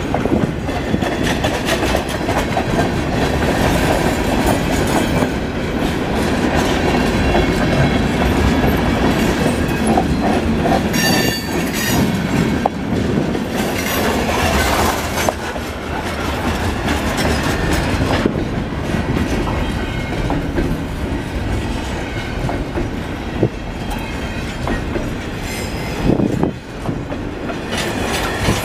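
Freight train cars passing close by, their steel wheels rumbling and clicking steadily over the rail joints, with a brief high wheel squeal about eleven seconds in.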